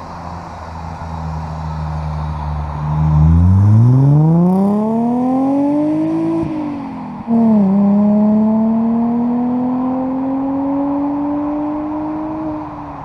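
Audi A4's 3.0-litre V6 through a custom exhaust, running steady and then accelerating from about three seconds in. The pitch climbs quickly, falls at a gear change a little past halfway, then climbs slowly again in the next gear before easing off at the end.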